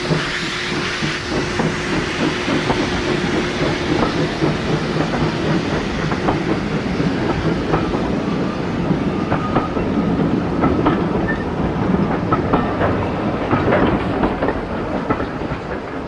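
A train running on a heritage line, its wheels clattering and knocking over the rail joints, with a low steady tone that fades out after the first few seconds.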